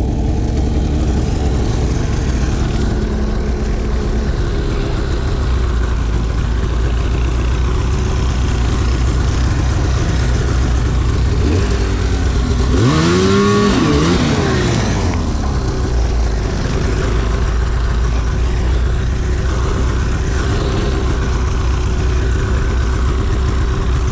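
Arctic Cat CFR 1000 snowmobile's two-stroke twin running under way, a steady engine drone. About halfway through, the engine revs up and falls back down.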